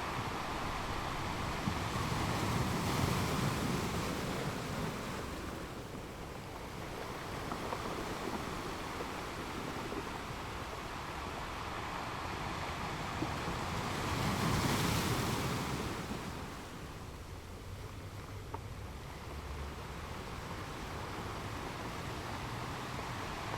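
Ocean surf: a steady wash of waves that swells twice, a few seconds in and again more loudly, with more hiss, about fifteen seconds in.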